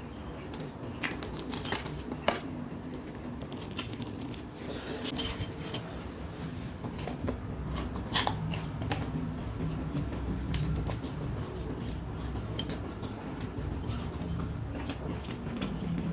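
Close-miked eating of gorengan (Indonesian fried snacks): irregular crisp crunches and chewing, with a few sharper crunches standing out.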